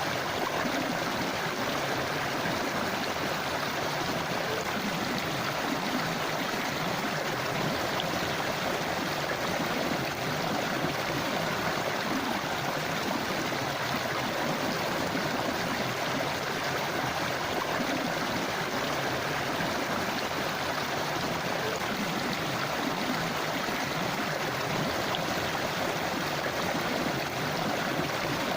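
A forest river running over rocks: a steady rushing and babbling of water.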